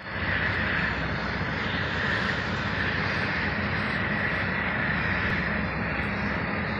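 Norfolk Southern double-stack intermodal freight train rolling past: a steady, continuous noise of wheels on rails, with a low rumble and a higher hiss over it.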